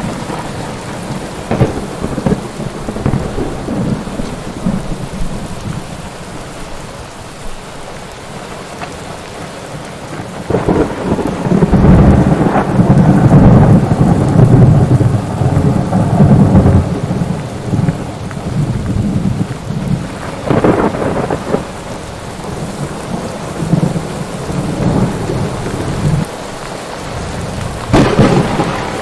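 Thunderstorm: steady heavy rain with rolling thunder, one long deep rumble from about 11 to 17 seconds in, and sharper claps near the start, about 20 seconds in and near the end.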